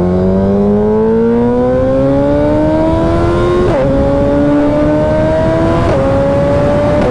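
Suzuki Hayabusa's inline-four with a Brocks Performance Alien Head 2 exhaust accelerating hard through the gears. The engine note climbs steadily, then drops at upshifts about four and six seconds in.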